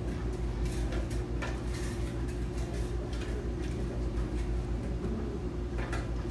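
A dog eating: scattered short clicks and chewing sounds, thickest in the first few seconds and again near the end, over a steady low hum.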